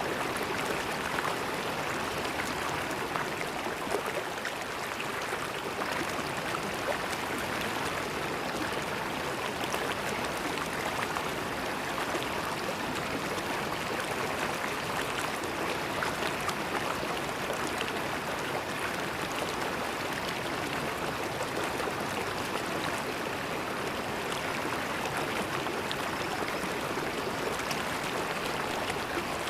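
River water flowing steadily over stones, a continuous rushing and gurgling with many small splashes.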